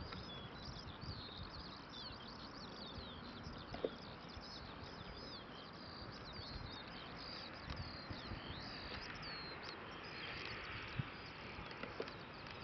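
Songbirds chirping and warbling almost without a break, over a steady outdoor background hiss, with a couple of faint knocks about four seconds in and near the end.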